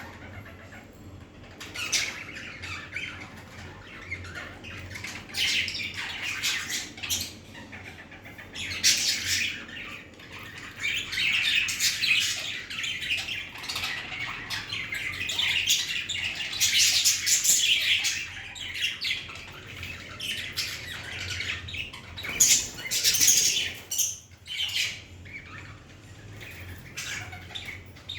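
Pet budgerigars chattering and squawking, a busy run of shrill calls with several loud bursts.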